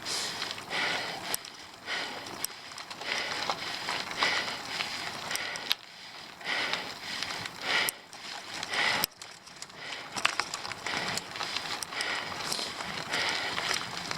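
Hard, rhythmic breathing of a cyclist grinding up a steep climb, a hissing puff roughly every second, with a few sharp clicks from the bicycle.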